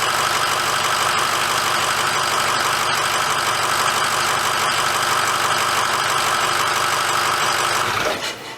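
Ford 6.0-litre Power Stroke V8 turbo-diesel idling steadily just after an oil change, then shut off about eight seconds in.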